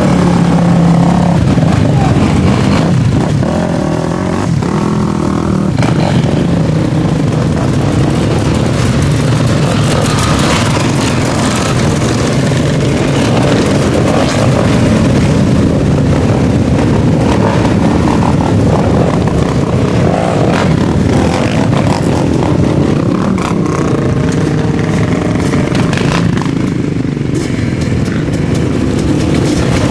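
Motorcycle and quad engines running together, several at once, with revving rising and falling over a steady engine noise.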